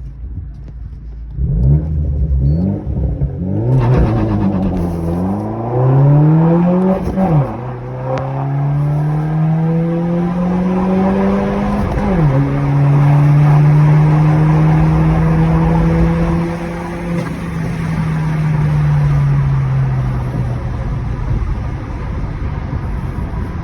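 Turbocharged 1.6-litre four-cylinder of a BMW 114i with a decatted, straight-piped exhaust, revved up and down a few times and then pulled hard up through the gears. The pitch climbs and drops sharply at two upshifts, about seven and twelve seconds in, then holds steady and falls away as the car eases off.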